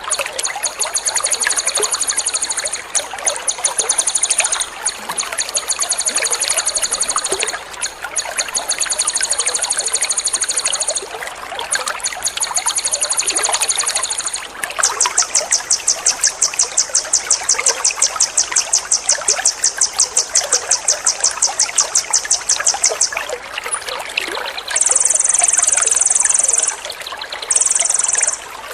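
Water trickling steadily, with a songbird's rapid, high trills laid over it: a run of short trill bursts, then one long trill of about eight seconds, then two shorter bursts near the end.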